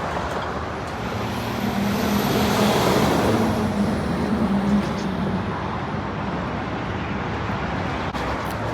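Road traffic noise, with one motor vehicle passing close: its engine hum swells about two seconds in and fades away a few seconds later.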